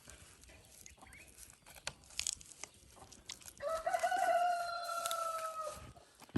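A rooster crowing once, one long drawn-out call of about two seconds that starts a little past halfway and sags slightly in pitch at the end. Before it there are faint scattered clicks and handling noises.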